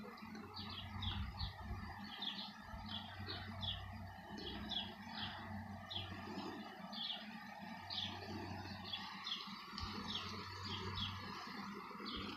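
A bird chirping over and over, short high chirps in quick groups of two or three, faint against a low steady hum.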